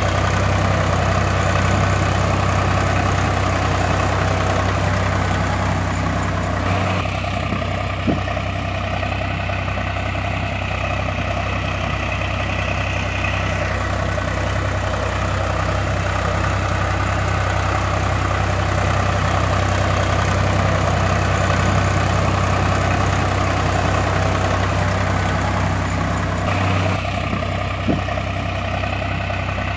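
Heavy vehicle engine idling steadily with a deep drone, its note shifting slightly twice.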